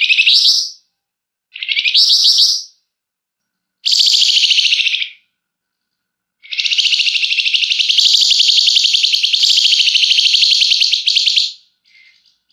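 Flamboyan songbird singing, with three short, rapid trilled phrases and then one long, tight, continuous trill of about five seconds starting at about six seconds in.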